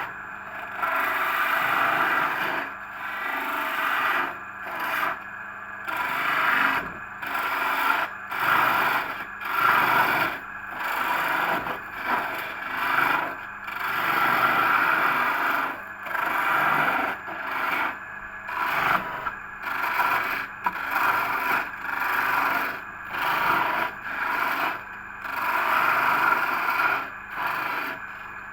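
A homemade lathe running while a cutting tool scrapes against the spinning workpiece. The scraping swells and fades in repeated strokes, roughly once a second, over a faint steady machine hum.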